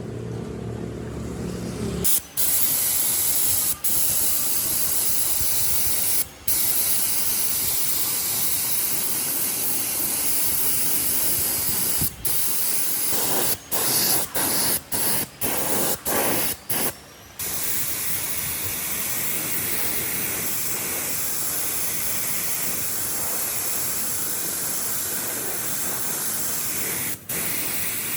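Compressed air hissing steadily from an air tool, stopped briefly several times as the trigger is let go, with a quick run of short on-off bursts around the middle.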